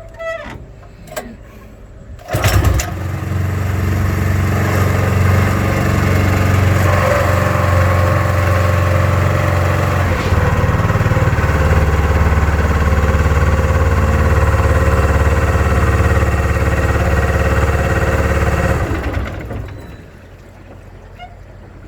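Small petrol engine of a boat pump starting abruptly about two seconds in and running steadily, its note shifting lower around halfway, then cutting out and running down near the end.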